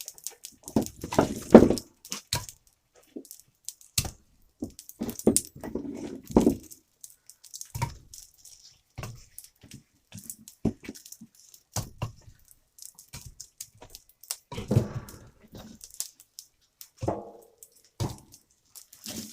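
Dry cut branch wood being handled and tossed into a wood stove: irregular sharp knocks and wooden clunks, with a few heavier thuds.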